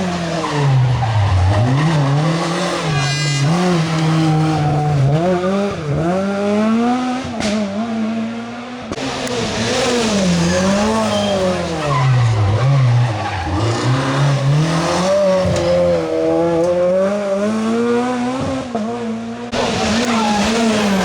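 Rally car engine driven hard, its pitch rising and falling every second or two as the driver accelerates, lifts and shifts gear, with tyres skidding.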